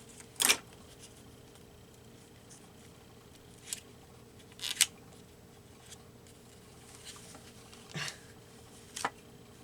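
Paper handling while picking at the backing paper of an adhesive piece: about five short, scratchy crackles with pauses between them, the loudest about half a second in.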